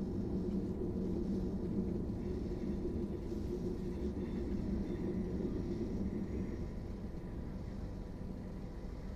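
Suburban passenger train running, heard from inside the carriage: a steady low rumble of wheels on rails and running gear, easing slightly about two-thirds of the way through, with a faint steady whine above it.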